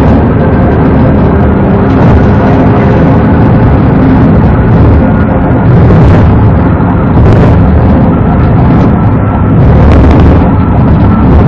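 Police car driving at speed: a loud, steady rumble of road and engine noise picked up by the in-car dashcam microphone.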